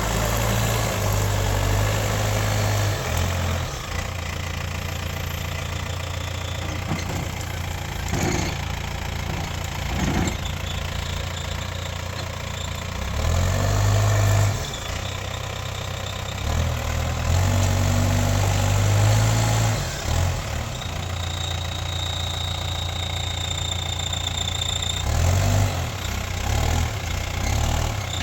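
Case backhoe loader's diesel engine running, revving up hard three times, as the stuck machine works to get free. A thin high whine sounds for a few seconds in the second half.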